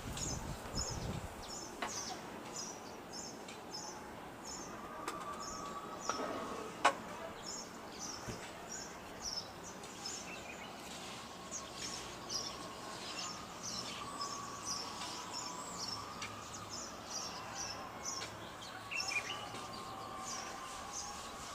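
A bird chirping outdoors: short high notes repeated about twice a second, over a faint background hum. A single sharp click sounds about seven seconds in.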